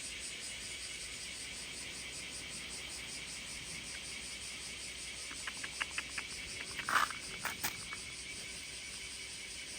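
Steady high chirring of summer insects. A quick run of light clicks comes about five seconds in, followed by a few sharper clicks around seven seconds, the first of these the loudest.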